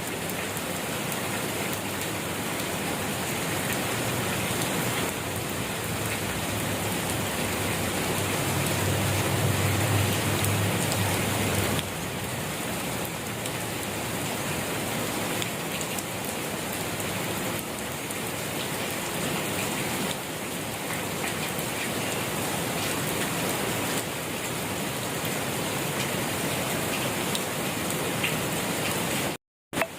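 Steady rain falling on a surface: an even hiss with scattered drop taps. A low rumble swells for a few seconds near the middle and stops abruptly, and the sound cuts out for a split second near the end.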